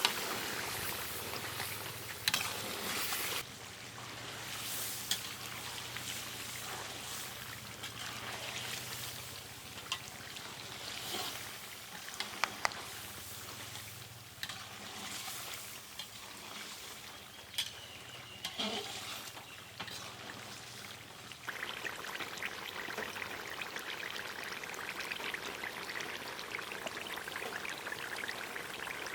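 Water trickling and pouring, with scattered sharp clicks and knocks. About three quarters of the way through, a steadier hiss sets in.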